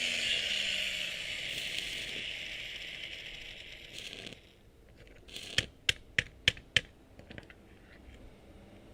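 A power tool's motor winding down with a falling whine that fades out about four seconds in. Then five sharp metallic clicks about three a second, followed by a few fainter ticks.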